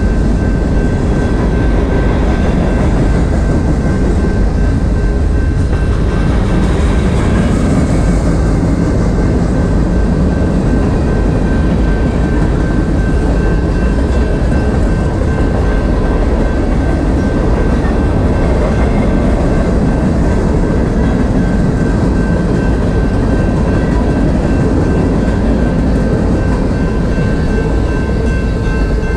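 Freight train cars, boxcars and then centerbeam flatcars, rolling past with a loud, steady rumble of steel wheels on rail. A thin steady high tone sits over the rumble throughout.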